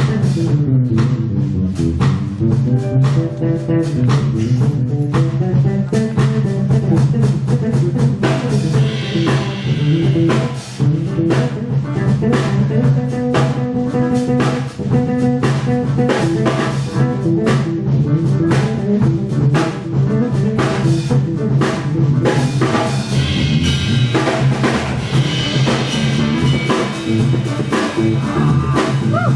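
Jazz orchestra playing, with the drum kit and guitar prominent over a steady bass line.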